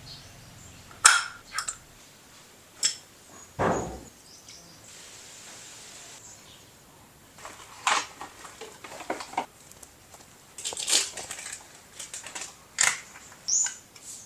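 Scattered clinks, taps and knocks of metal tools and parts being handled during a motorcycle oil and oil-filter change, irregular and sharp, with a brief soft hiss a few seconds in.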